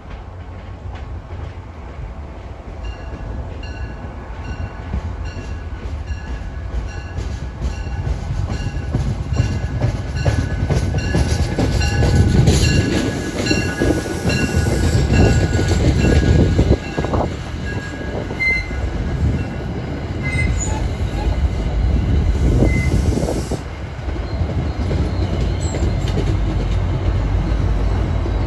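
MBTA diesel commuter train running in push mode past close by: the cab car and coaches roll past with wheels rumbling and clacking on the rails, growing louder over the first dozen seconds, and the locomotive at the rear arrives near the end. A bell rings at an even pace, about one strike every two-thirds of a second, through roughly the first half, and a few brief wheel squeaks come in the second half.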